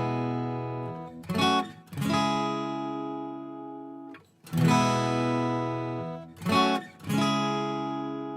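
Acoustic guitar playing an intro: full chords strummed and left to ring out, each followed by a quick burst of short strums.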